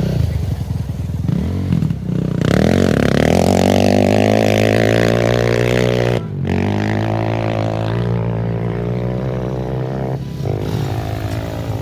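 Off-road racing engine revving hard under throttle, its pitch climbing, in several passes that break off suddenly about two, six and ten seconds in.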